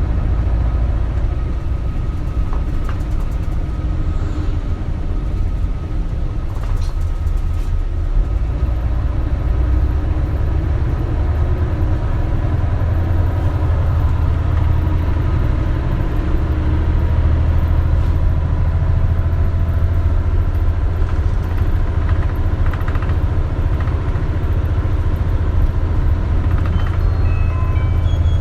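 Isuzu Erga city bus's diesel engine and drivetrain running under way, heard from inside the cabin as a steady low drone, with a few light rattles and knocks from the body.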